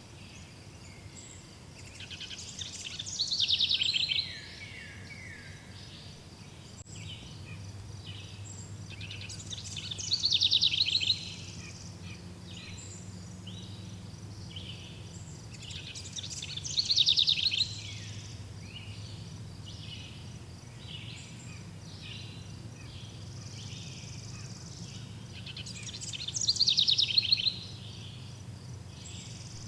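Birds singing: one bird repeats a loud, high song phrase four times, about every seven seconds, over softer steady chirping and a faint low hum.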